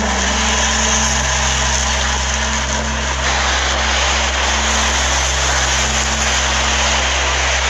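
A steady, loud rushing noise like storm wind and rain, over a low steady hum.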